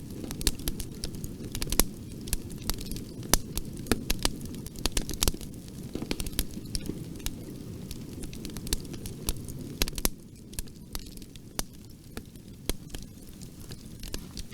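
Bonfire burning: a steady low rush of flame with irregular sharp crackles and pops from the burning wood, thinning out somewhat after about ten seconds.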